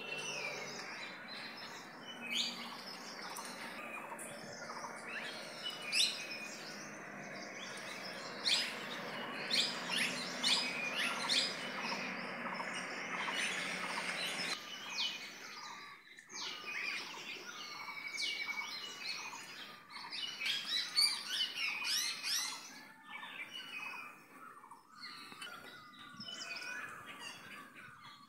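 Many small birds chirping and calling in the trees, with short repeated notes and trills overlapping. A steady hiss runs under them through the first half and stops suddenly about halfway through.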